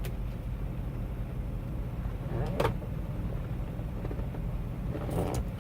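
Steady low drone of a semi truck's engine and road noise inside the cab while cruising on the highway.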